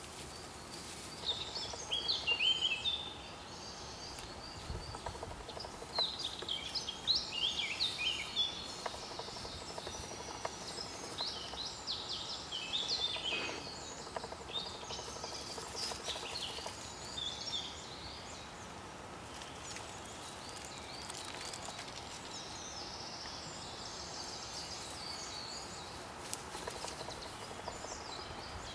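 Small songbirds singing, a jumble of quick high chirps and trills that are busiest in the first half and thin out later, over a steady outdoor hiss.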